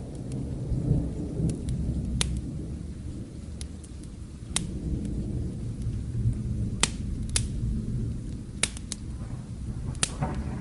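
Low, continuous rumble of distant thunder with rain, and the sharp pops of a crackling wood fire about a dozen times at uneven intervals.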